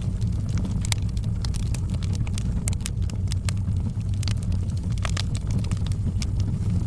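Wood fire burning in a fireplace: a steady low rumble of flame with frequent sharp, irregular crackles and pops of burning logs.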